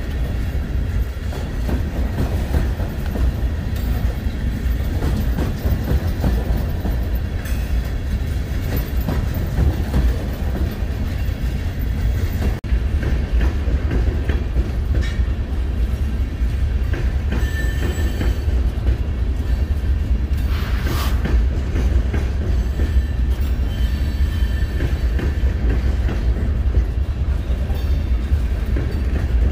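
Freight train of tank cars rolling past at close range: a steady, even rumble of steel wheels on rail that does not let up.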